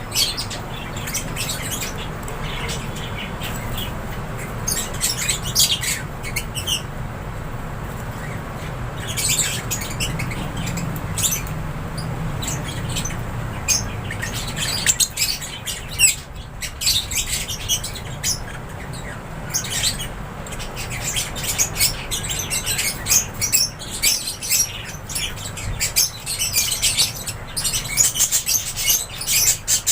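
A flock of lovebirds in an aviary, chirping and squawking constantly in quick overlapping high calls that get busier near the end, over a steady low hum.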